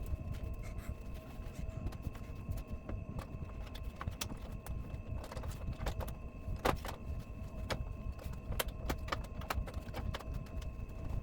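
Scattered clicks and light metallic clinks of hand work on a flat-screen TV while its main board is refitted, with one sharper click a little over halfway through, over a low rumble and a faint steady whine.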